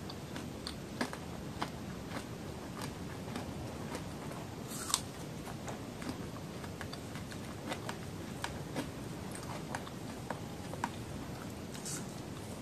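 Close-miked mouth sounds of nibbling and chewing a small sweet snack: soft wet clicks and light crunches scattered throughout. The sharpest click comes about five seconds in, and another near the end.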